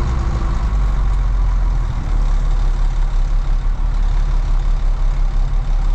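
Off-road articulated haul truck's diesel engine running as it drives along the road, a deep steady drone that from about two seconds in pulses evenly, about three times a second.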